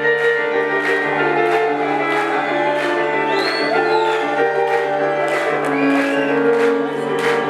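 Live jazz-fusion band music: held ensemble chords over a steady beat of drum hits, with a few gliding pitches on top.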